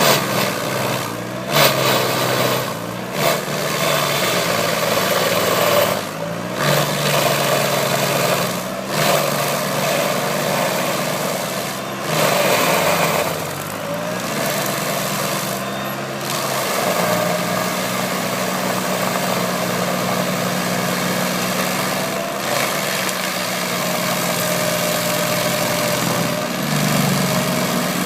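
Lamborghini tractor's diesel engine running while mulching, its pitch shifting up and down with load over a steady clattering haze from the mulcher. The sound breaks off briefly several times.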